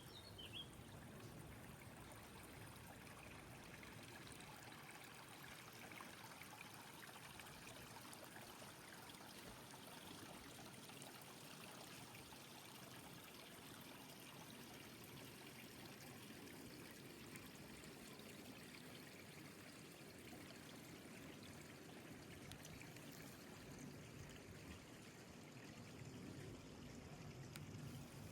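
Faint, steady rush of running water from a mountain stream.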